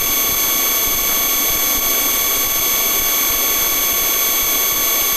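Police helicopter's turbine engine and rotor drive running steadily: an even rushing hiss with several high, steady whining tones over it.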